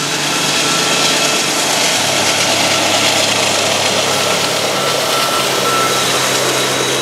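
A freight train passing close by: steel wheels rumbling and clattering over the rails under the tank cars, with a diesel-electric locomotive's engine running steadily as it goes by. A thin, steady whine comes and goes over the noise.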